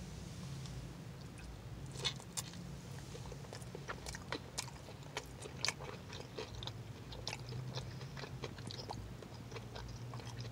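Close-up biting and chewing of a buffalo-sauced crispy chicken tender dipped in ranch: irregular mouth clicks and smacks starting about two seconds in, over a low steady hum.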